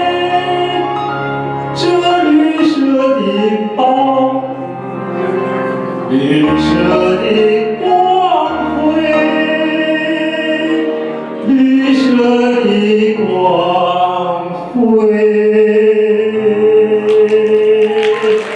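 Operatic-style singing without words over backing music, the voice moving through quick runs and ending on a long held note near the end, as a song's closing cadenza.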